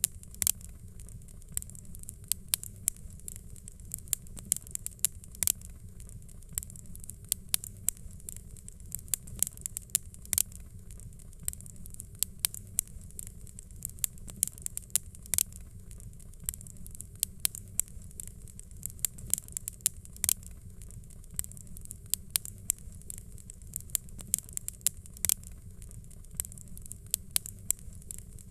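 Fireplace fire crackling: irregular sharp pops and snaps, several a second, over a steady low rumble and a high hiss.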